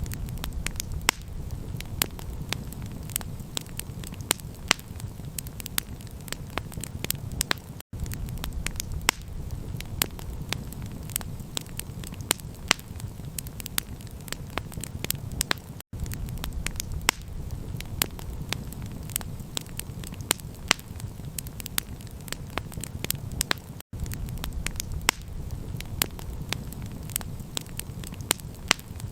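Campfire crackling, with frequent sharp pops and snaps from the burning wood over a steady low rumble. The sound briefly drops out about every eight seconds, as at the seam of a looped recording.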